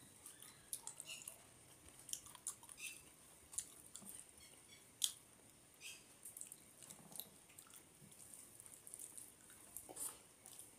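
Quiet, close-miked chewing and wet mouth clicks from a man eating rice by hand, with soft squishes of his fingers working the rice on a metal plate. One sharper click stands out about five seconds in.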